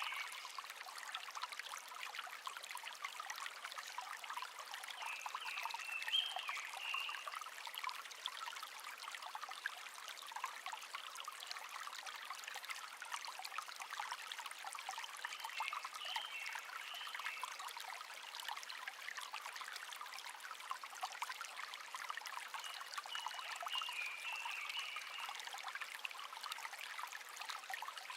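A small shallow stream babbling steadily over stones, with a songbird singing a short high phrase three times, roughly ten seconds apart.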